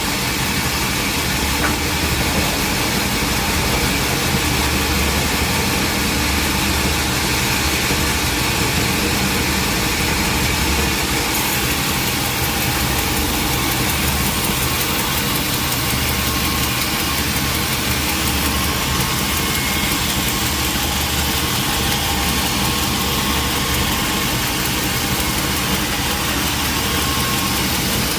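Sawmill machinery running steadily: a continuous engine drone with hiss, unchanging throughout.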